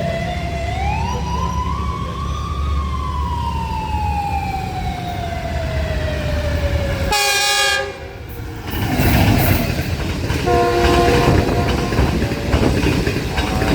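Passing train, likely the Green Line express: a low rumble under a whine that rises and then slowly falls in pitch, then a short horn blast about seven seconds in and a longer multi-note horn chord a few seconds later, as the clatter of the passing train builds.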